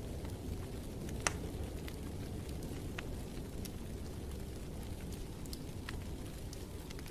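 Wood fire crackling in a fireplace: scattered sharp pops and snaps, one louder pop about a second in, over a steady low rumble.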